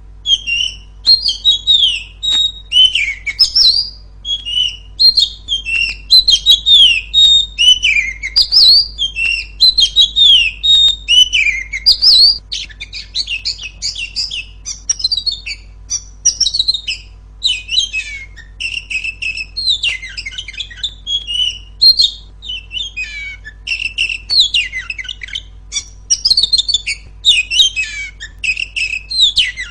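A female Oriental magpie-robin singing loudly and without pause. Quick falling whistled notes come first, then a faster run of chattering notes from about twelve seconds in.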